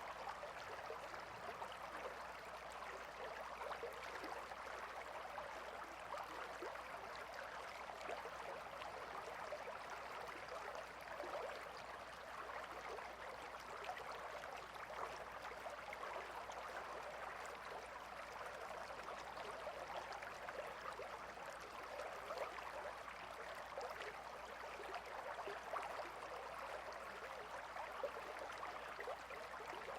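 Gentle river flowing: a steady babble of water with fine, continuous splashing.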